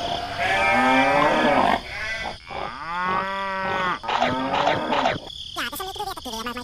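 Farm animal calls, likely sound effects: several livestock calls one after another, with quicker, wavering cries near the end.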